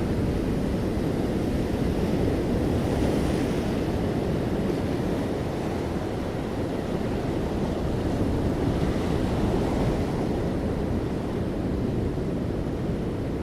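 Sea waves breaking gently on the shore, a continuous low surf wash that swells softly now and then.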